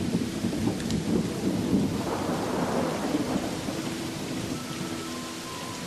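Thunder rumbling over steady rain, the rumble slowly dying away toward the end.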